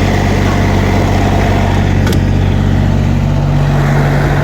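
Standby diesel generator engine running steadily under its enclosure covers during its monthly exercise test. A brief click about two seconds in.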